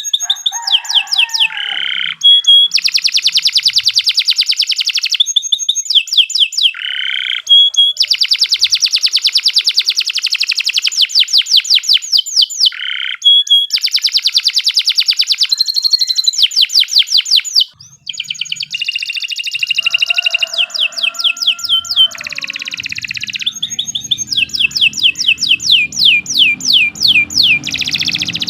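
Domestic canary singing a long, loud song of fast rolling trills, each a rapid run of repeated high notes, strung together with only a brief pause about two-thirds through. This is the kind of long, continuous song that keepers play to tutor young canaries.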